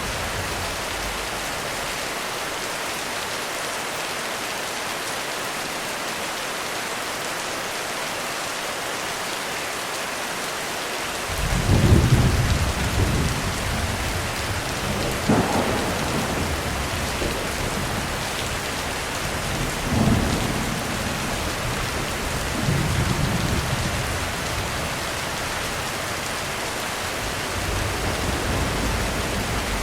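Steady heavy rain drumming on a roof. About a third of the way in, thunder starts rolling and rumbles on in several swells to the end, with sharper peaks around the middle.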